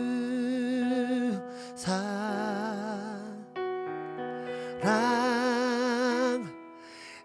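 Slow worship song: a voice holds long sung notes with vibrato over sustained keyboard chords. There are three drawn-out phrases, each about a second and a half long.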